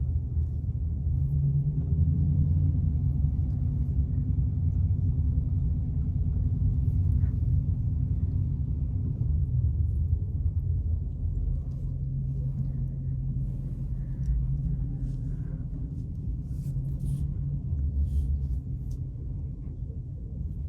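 Car engine running at low speed with a steady low rumble, easing off slightly in the second half.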